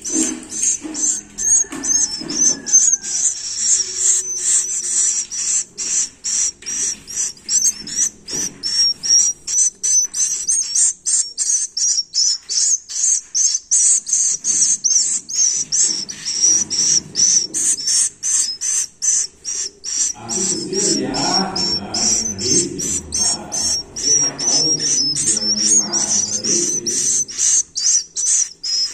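Swiftlet chicks calling: a dense, unbroken run of short, high, shrill chirps, about three to four a second. Lower background sound comes in for a few seconds about two-thirds of the way through.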